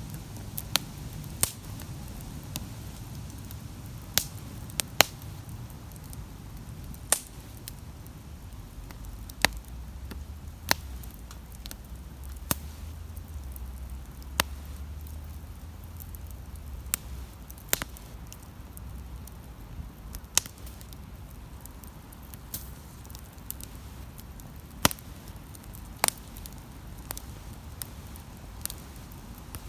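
Wood campfire crackling, with irregular sharp pops and snaps over a soft low rumble.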